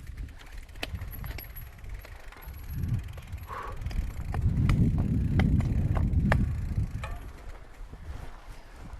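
Mountain bike riding down rough singletrack: tyres rumble over sand and roots, with sharp clicks and rattles from the bike. The rumble grows louder for a couple of seconds near the middle.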